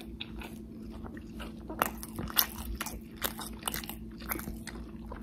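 A person chewing a mouthful of burger with intense, open-mouthed lip-smacking: a run of short wet smacks and clicks at an uneven pace.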